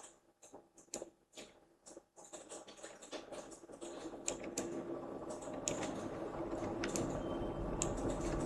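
Scattered clicks of a computer keyboard and mouse, sparse at first. After about two seconds they sit over a faint background hum that grows steadily louder.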